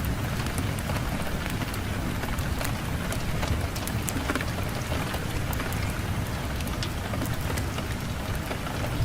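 Wood fire burning in a firebrick fireplace: scattered sharp crackles and pops over a low steady rumble.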